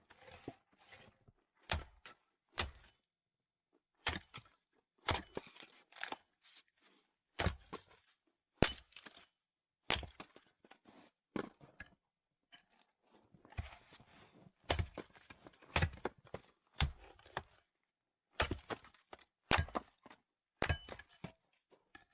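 Split firewood being handled, with sharp wooden knocks as logs strike one another at irregular intervals and rustling and crunching between them.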